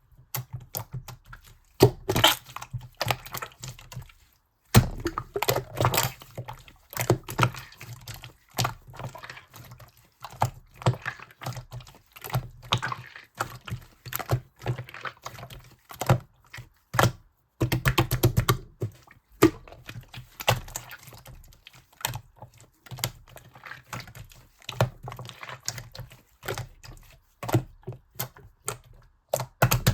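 Sky-blue slime being squished, pressed and stretched by hand: a dense, irregular run of sticky clicks and pops, with a couple of brief pauses.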